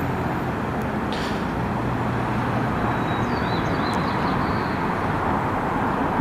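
Steady road and engine noise of a car driving through town, heard from inside the cabin.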